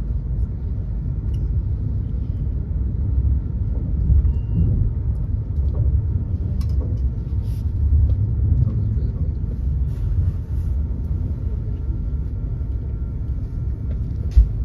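Steady low rumble of an SBB ETR610 electric train running along the line, heard inside the passenger coach, with a few faint clicks and one short knock near the end.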